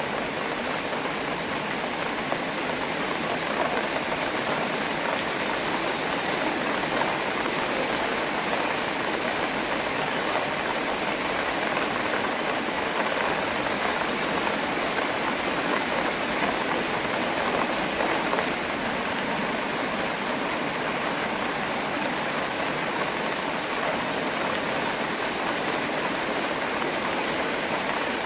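Steady rain falling on and around a pond, a dense, even hiss of drops that stays constant throughout.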